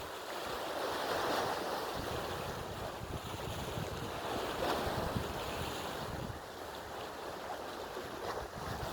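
Sea waves washing in a steady rush that swells and eases twice, with wind buffeting the microphone.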